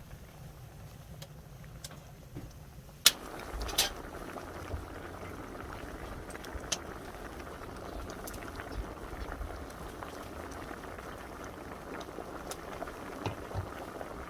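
A sharp clink about three seconds in, then a pot of pork-bone soup boiling steadily, bubbling, with scattered small pops and ticks.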